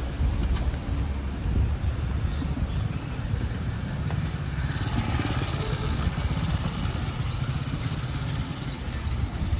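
Street traffic: a motor vehicle's low engine rumble passing, with faint voices around the middle.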